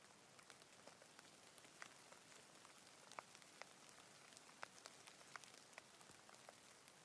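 Faint steady rain hiss with scattered individual raindrops ticking sharply, a few each second.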